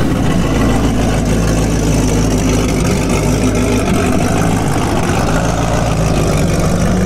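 Second-generation Chevrolet Camaro Z28's V8 engine running at a steady low-speed idle as the car rolls slowly past, with a deep, even exhaust note and no revving.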